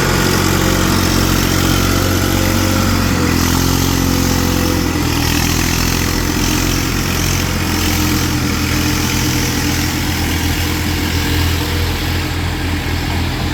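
Tractor's diesel engine running steadily, its pitch shifting slightly a few seconds in.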